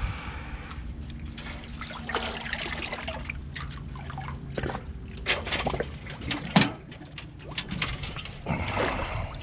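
Water splashing and trickling, with scattered sharp knocks and clicks at irregular moments.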